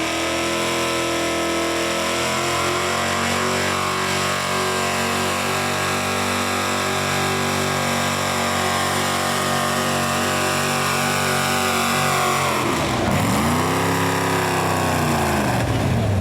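Engine of a pulling truck or tractor running hard, its pitch sagging slowly, then dropping steeply about thirteen seconds in and climbing back up near the end.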